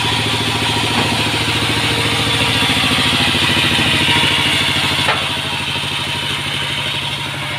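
Sawmill machinery running steadily, with an engine's fast, even pulsing drone and a hiss above it. Two light knocks come about a second in and about five seconds in.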